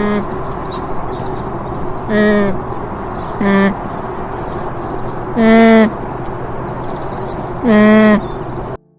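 An animal calling five times in short, loud, pitched calls, each under half a second, over steady bird chirping and outdoor background noise.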